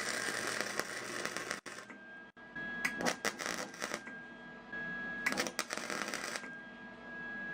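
Electric arc welder crackling as a bead is laid on a cracked, pitted exhaust pipe, in three runs of a second or two each with short pauses between, and a faint steady high tone in the gaps.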